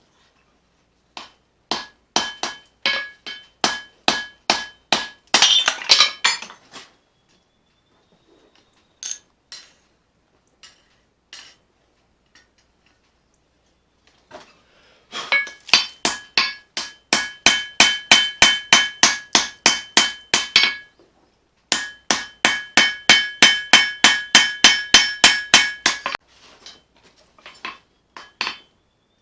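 Hammer blows on leaf-spring steel over an anvil while forging a knife blade, with the anvil ringing under each strike. The blows come in runs of about three to four a second, broken around the middle by a pause with only a few scattered blows, and lighter taps near the end.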